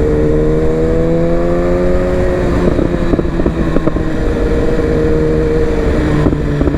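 Sport bike engine running at highway cruising speed, its pitch rising gently over the first two seconds and then holding steady, over steady wind noise.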